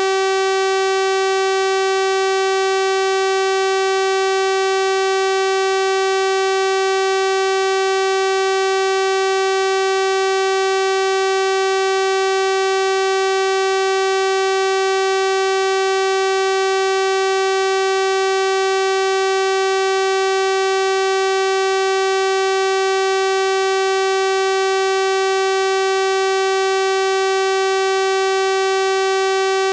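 Synthesized 384 Hz sawtooth-wave tone, a steady buzzy hum holding one pitch without change.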